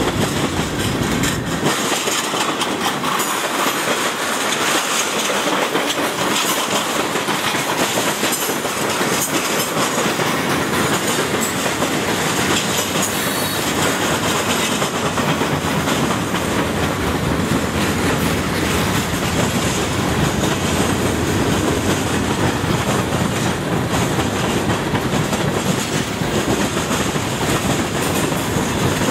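Freight train tank cars and boxcars rolling past close by: a steady rolling noise with wheels clicking over the rail joints.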